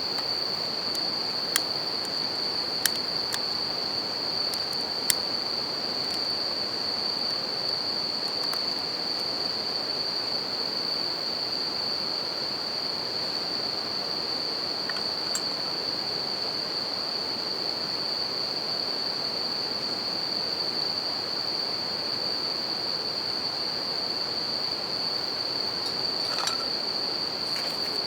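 Japanese bell crickets (suzumushi) singing in a steady high-pitched ring over the even rush of a river, with a few sharp pops from a wood campfire, three in the first five seconds and one near the end.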